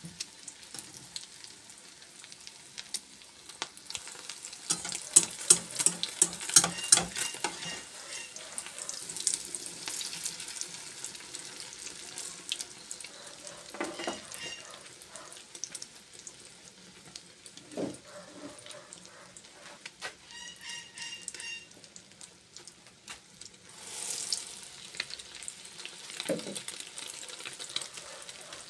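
Food frying in a pan with a steady crackling sizzle, broken by sharp clicks and scrapes of a cooking utensil, busiest about five to eight seconds in.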